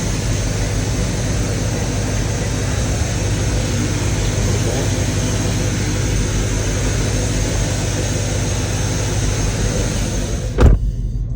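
Supercharged 6.2-litre HEMI V8 of a Dodge Hellcat idling steadily, under a steady hiss with a thin high whine. Near the end a single loud thump, after which the hiss drops away.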